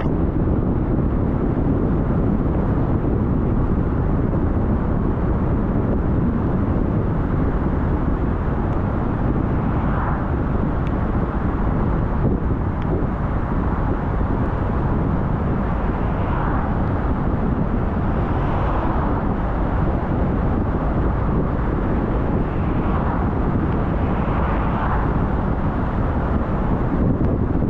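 Steady low rumble of a car driving, with wind noise on the microphone and a few faint short sounds over it.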